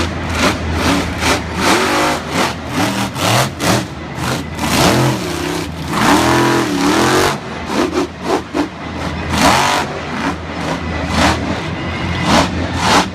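Monster truck engine revving hard and repeatedly, its pitch rising and falling in quick sweeps with sharp blips of throttle.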